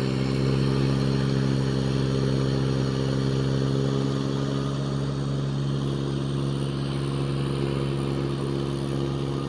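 Swaraj 735 tractor's three-cylinder diesel engine running at a steady, even pitch while pulling a fully loaded trolley.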